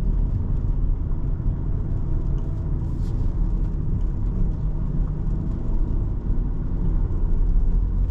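Cabin sound of a 2017 Volkswagen Jetta SE with a 5-speed manual cruising: a steady low rumble of engine and road noise.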